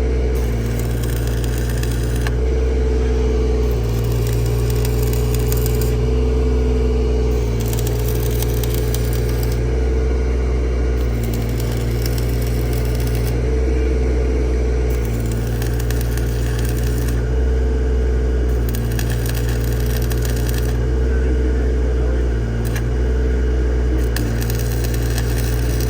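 An engine running steadily with a low, even hum, its loudness swelling and easing slightly every second or two.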